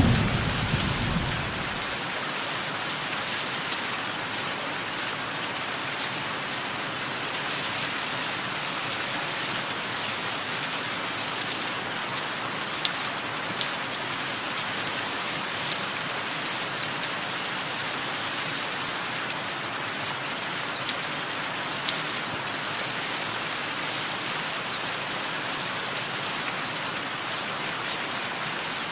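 Steady hiss of rain with small birds chirping over it: short, high, quick downward-sweeping notes, often in twos or threes, every couple of seconds. A thunder rumble dies away in the first two seconds.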